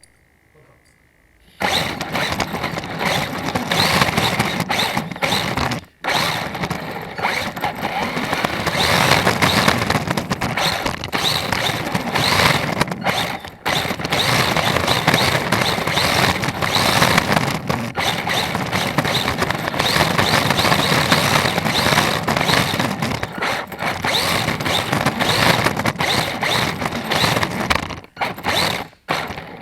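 Electric RC drift car running, its electric motor whining and its tyres scrubbing as it drives. The sound starts after a second and a half of near silence and drops out briefly a few times.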